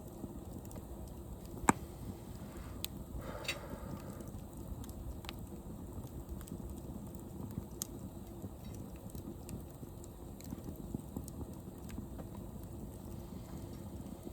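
Wood bonfire crackling, with a steady low rush under scattered sharp pops and one loud snap about two seconds in.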